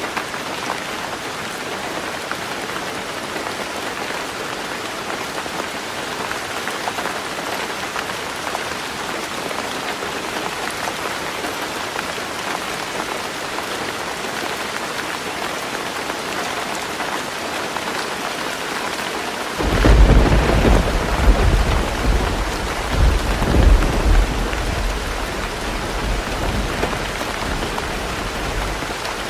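Heavy rain falling steadily on a roof. About two-thirds of the way through, a deep rumble of thunder breaks in suddenly, swells several times and slowly dies away under the rain.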